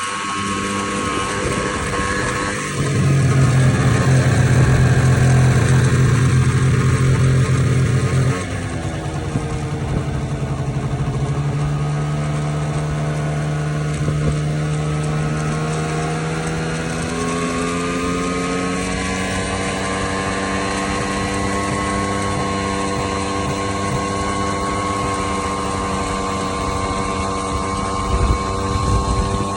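Vespa LX50 scooter's 50 cc engine running on the move, its pitch sinking and rising with speed and then holding steady. A louder low drone joins it from about three to eight seconds in. The owner reports that the scooter makes strange noises while riding.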